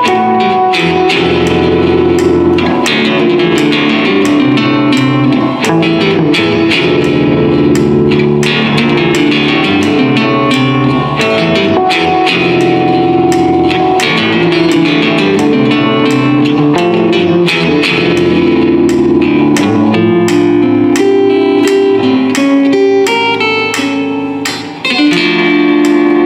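Live guitar playing: a dense run of plucked notes over lower held notes, with a brief drop in level near the end.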